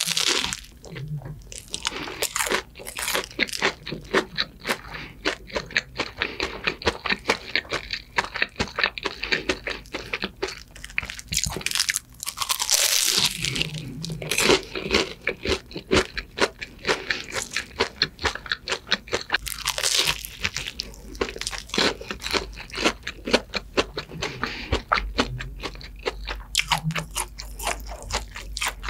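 Crispy deep-fried croquette crunching between the teeth, close-miked, in a rapid run of crackles as it is chewed. Louder crunching bites come right at the start and again about halfway through.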